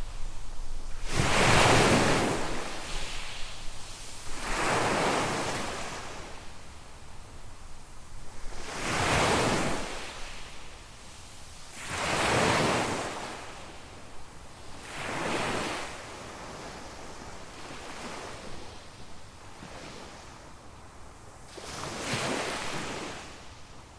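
Small waves breaking on a sandy beach, about six surges of surf a few seconds apart, each swelling and washing out, with a soft hiss between them.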